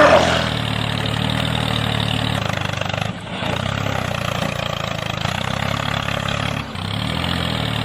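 Engine idling steadily at a low, even rumble, with two short breaks about three and nearly seven seconds in.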